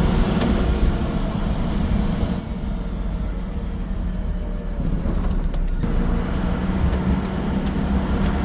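Steady engine and road noise of a moving vehicle. The hiss of wind and tyres thins out for about three seconds in the middle, then comes back.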